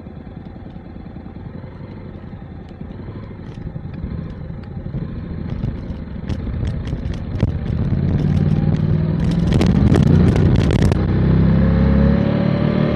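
Motorcycle engine running and growing louder through the middle. A run of sharp clicks and ticks comes in the second half, then the note turns steadier near the end.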